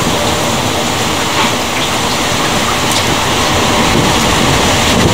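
Loud, steady rain pouring down during a night thunderstorm.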